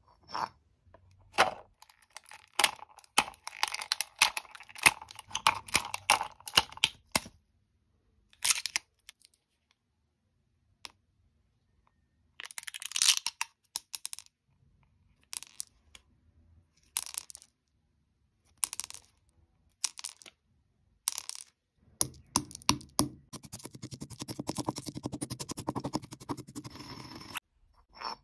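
Things cracking and crunching as they are crushed: irregular sharp cracks, thick at first and then further apart, then a quick run of crackling near the end.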